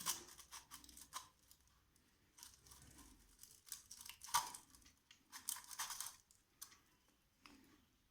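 Faint handling noises from taking apart a rusted popcorn maker: scattered clicks, scrapes and crinkles as the heating element is worked loose and lifted out. The loudest scrape comes about halfway through.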